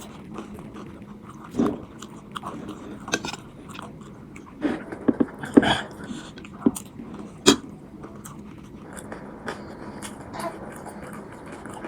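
A person biting and chewing chatpate, a moist spiced puffed-rice snack, with scattered irregular crunches and mouth sounds.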